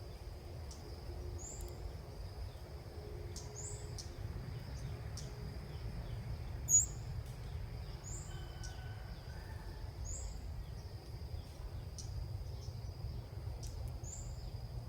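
Short, high bird chirps repeating about every one and a half seconds over a steady high insect drone and low outdoor rumble. A single sharp click comes about halfway through and is the loudest sound.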